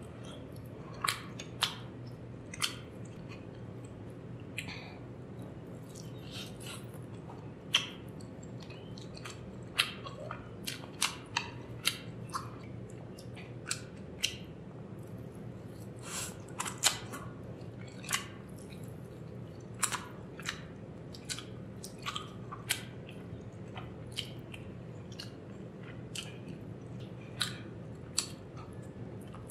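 Close-miked chewing and biting into a curried chicken leg piece eaten by hand: irregular sharp mouth clicks and smacks over a steady low hum.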